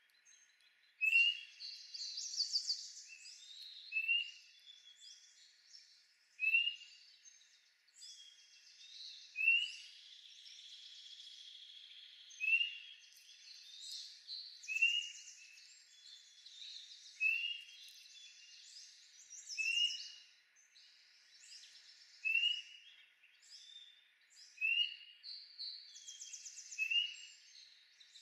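Several songbirds singing. One repeats a short rising note about every two to three seconds, while others sing busier, higher phrases in between.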